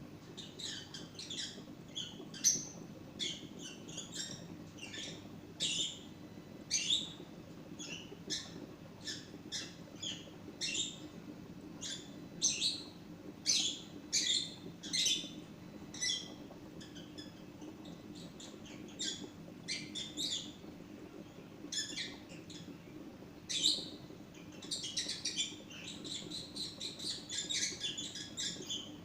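Parrot chirping, a long run of short high chirps and squeaks that grows busier and more continuous near the end, over a low steady hum.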